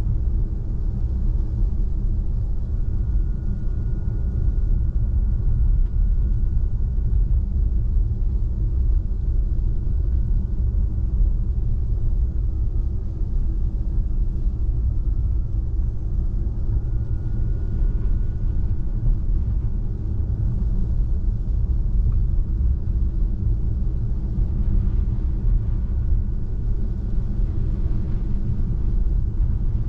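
Steady low rumble of a Tesla Model 3 driving on a snow-covered road: tyre and road noise, with a faint high whine coming and going.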